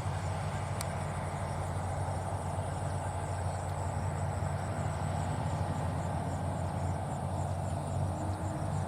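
John Deere 5104 tractor's three-cylinder diesel engine running steadily, with a faint high insect chirp pulsing a few times a second above it.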